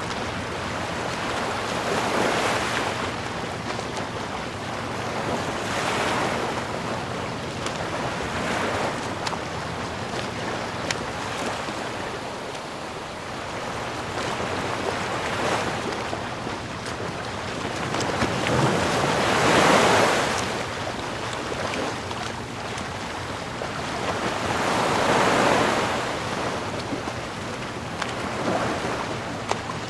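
Sea waves washing ashore: a steady hiss with about seven surges that swell and fade over a couple of seconds each, the loudest about twenty seconds in. A faint low steady hum lies underneath.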